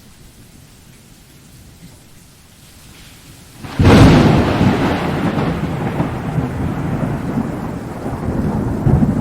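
Steady rain, then a sudden close thunderclap a little under four seconds in that rolls on as a long, slowly fading rumble over the rain.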